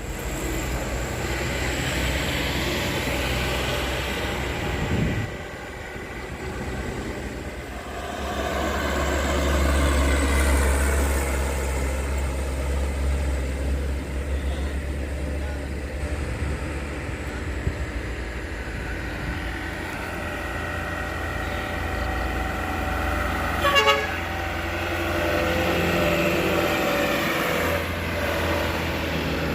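Heavy trucks' diesel engines running as they go past, the rumble swelling and fading as each truck passes, with a short horn toot about 24 seconds in.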